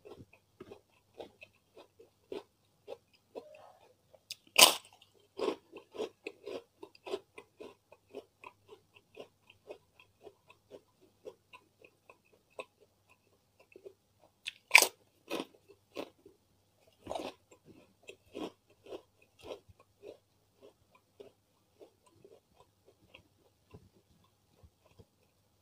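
Close-miked eating: steady chewing with small wet mouth clicks, broken by loud crunching bites of crisp white crackers about four and a half seconds in, near the middle, and a couple of seconds after that.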